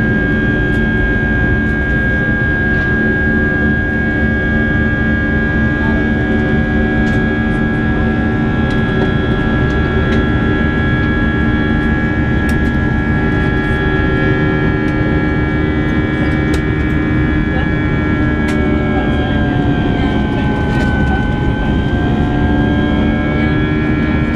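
Airbus A319 cabin noise in flight: a steady, loud rush of air and engine drone from its IAE V2500 turbofans, with several steady whining tones laid over it. About twenty seconds in, a few of the tones sag slightly in pitch and then recover.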